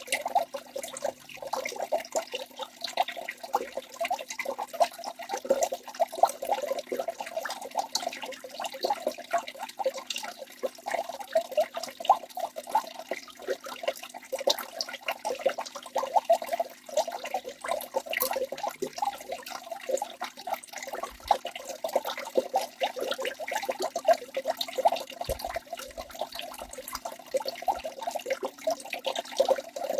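Waterfall's water splashing continuously, a dense run of quick, irregular splashes with no pause.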